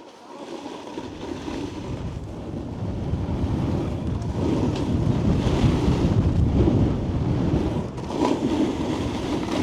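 Wind rushing over the camera microphone together with a snowboard sliding and carving on groomed snow, getting louder over the first few seconds as speed builds, then holding.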